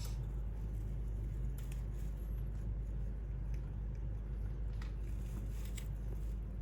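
Steady low indoor hum, with a few faint clicks scattered through it.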